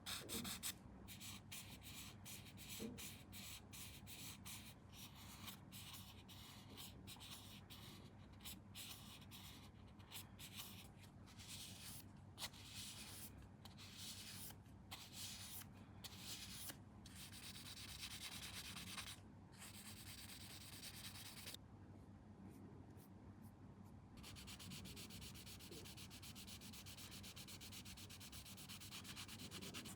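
Faint, quick, repeated sanding strokes on a small plastic model part, with a few short pauses.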